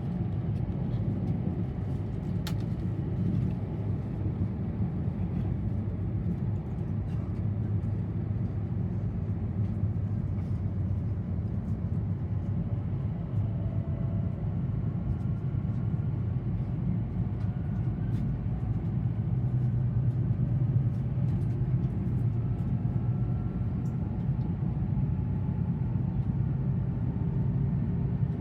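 Steady low rumble of a Tohoku Shinkansen train running at speed, heard inside the passenger cabin, with faint thin whines drifting in pitch and a few light ticks.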